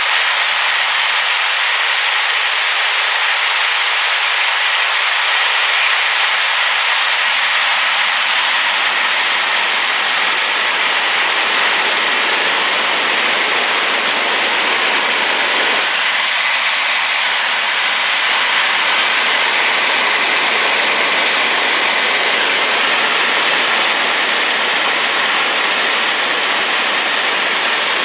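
Large waterfall running high after rain, a loud, steady rushing of falling water with no breaks.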